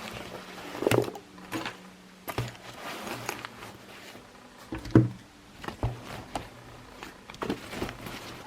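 Irregular knocks and clunks of objects being handled in a small room, about nine in all with the sharpest a little past the middle, over a faint steady low hum.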